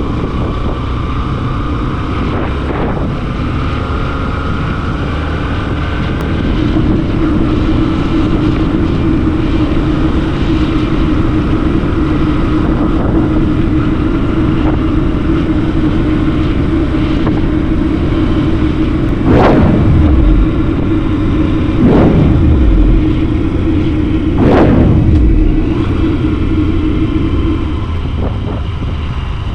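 A motorcycle engine running with a steady droning note. Near the end come three quick sweeps that fall sharply in pitch, a couple of seconds apart.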